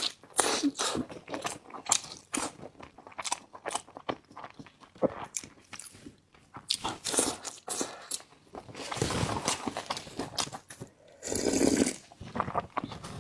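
Close-miked eating sounds: a person chewing and biting food, with many short wet mouth clicks and crunches, and longer, denser stretches of mouth noise about nine seconds in and again near the end.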